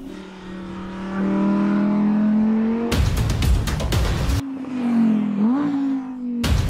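Audi R8's naturally aspirated 5.2-litre V10 engine pulling hard, its revs climbing steadily. About three seconds in, a sudden loud rush of engine and tyre noise as the car passes close. Then the revs drop and rise sharply again as it shifts, before another loud rush near the end.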